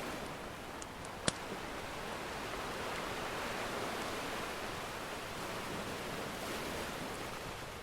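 Ocean surf washing in slow swells, with a few sharp pops and crackles of a wood fire; the loudest pop comes about a second in.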